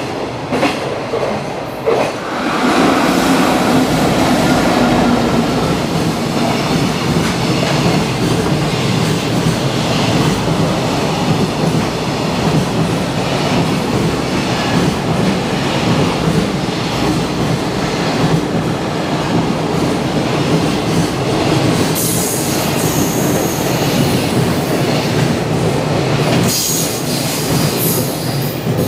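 Long container freight train passing at speed close by: steady rumble of the wagons and wheels clattering over the rails, with brief high squeals twice in the last third.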